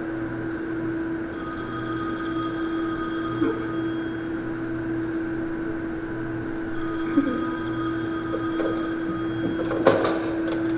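Telephone ringing in two long rings with a short pause between them, then a sharp knock near the end.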